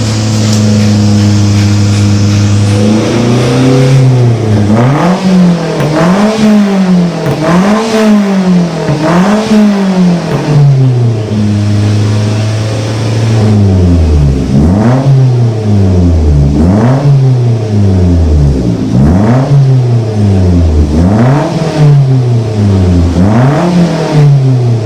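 Toyota Avanza's four-cylinder engine through an HKS aftermarket racing exhaust, settled at idle and then blipped repeatedly in two runs of quick revs with a short return to idle between them.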